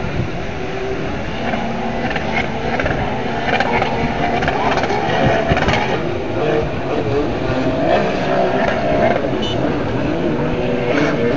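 Jet ski engines running at speed, several pitches wavering up and down.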